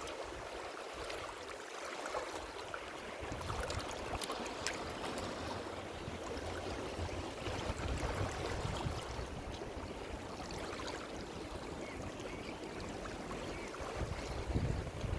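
Ocean surf washing on a shore: a steady hiss of moving water with small crackles of spray. The deeper rumble of the waves drops away at first and returns about three seconds in.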